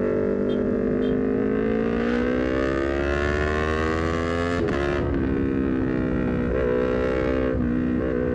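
Honda CBR250RR's parallel-twin engine through a full R9 header and Leovince GP Corsa silencer, pulling steadily up through a gear for about four and a half seconds. It then drops in pitch at a quick quickshifter upshift and holds fairly steady revs with small throttle changes.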